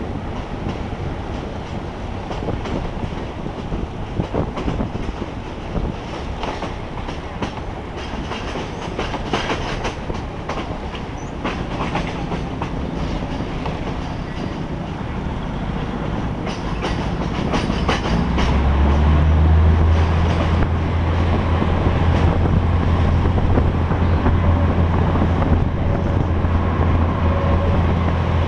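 Commuter train running on the track, heard from an open carriage window: a steady rumble of wheels on rails with irregular clacks over the rail joints. About two-thirds of the way through, a strong steady low drone sets in and the whole sound grows louder.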